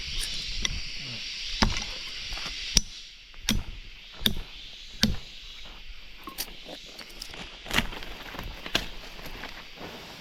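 Irregular sharp knocks and clicks, roughly one every second or so, over a steady high-pitched hiss.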